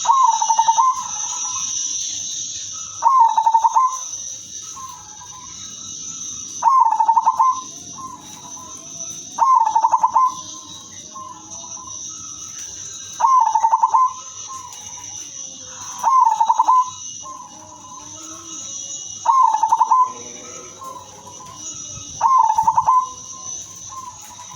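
Female silver zebra dove (perkutut) cooing: eight phrases in a row, about one every three seconds, each a quick rattling run of notes ending in a held note. A steady high-pitched hiss runs underneath.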